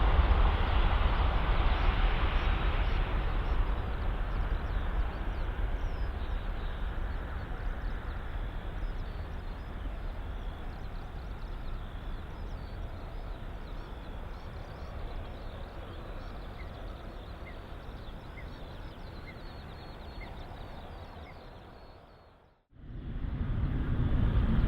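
Boeing 777-300ER's GE90 jet engines at takeoff power, a deep rumble that fades steadily as the jet climbs away. Near the end the sound cuts out for a moment and a loud low rumble starts again.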